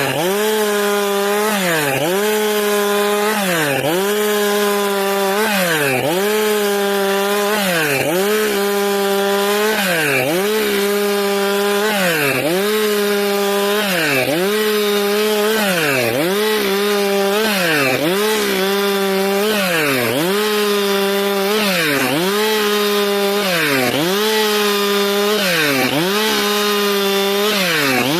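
Stihl MS462 two-stroke chainsaw ripping eucalyptus boards at high revs. The engine pitch briefly drops and comes back up about every two seconds as the chain bites into the wood.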